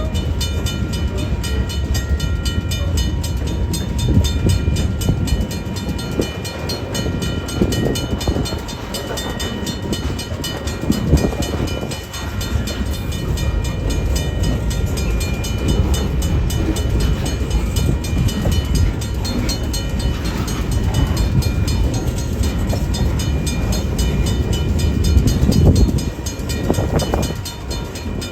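Train passing close by: a loud, steady rumble of the cars rolling on the rails, with a faint steady whine above it.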